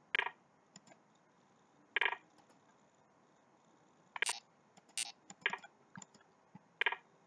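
Six or so short, separate clicks spread over several seconds, made while moves are played in an online blitz chess game.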